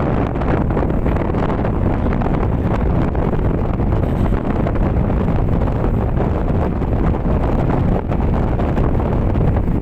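Strong wind buffeting the microphone aboard a ro-ro ferry, a steady loud rumble with no let-up.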